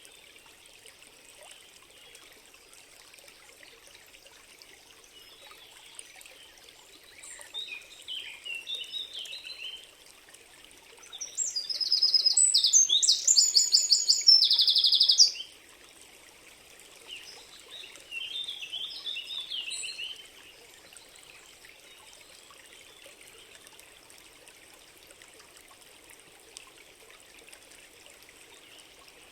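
Songbirds singing over a faint steady hiss: bursts of twittering chirps, with a loud, high, rapidly trilled song of repeated notes lasting about four seconds near the middle.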